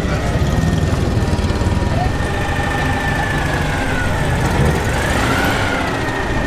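Vintage car engines running at low speed; in the latter part a Citroën Méhari's small air-cooled flat-twin putters as the car drives slowly past, with a thin whine that rises and falls about five seconds in.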